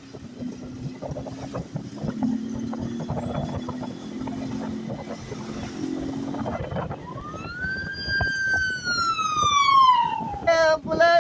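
A 160 cc motorcycle engine running steadily under wind noise. About seven seconds in a siren-like wail rises briefly and then falls slowly, and short choppy wailing pulses follow near the end.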